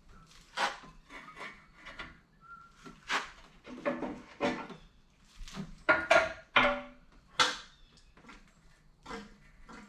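Irregular metal clanks and knocks of hand tools and hydraulic cylinder parts being handled and struck during teardown, some ringing briefly, the loudest cluster about six to seven and a half seconds in.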